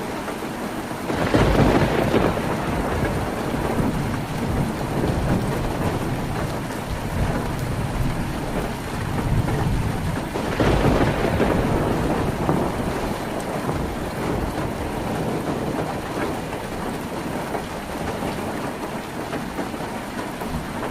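Heavy rain drumming steadily on a tin roof, with thunder rumbling twice: once about a second in and again about ten seconds in, each fading over a few seconds.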